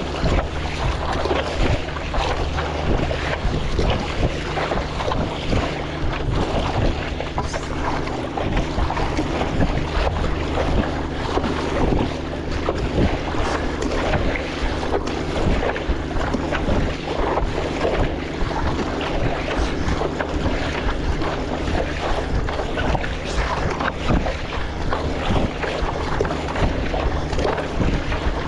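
Wind buffeting the microphone over water splashing and sloshing around a stand-up paddleboard on a choppy sea, steady throughout with frequent short splashes.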